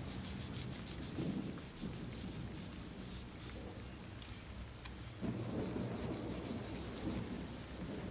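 Hand sanding with sandpaper: quick rhythmic rubbing strokes, about six a second, in two runs with a short pause in the middle.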